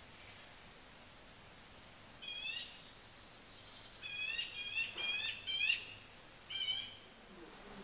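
A bird calling: one short call about two seconds in, a quick run of four calls about four seconds in, then one more near the end.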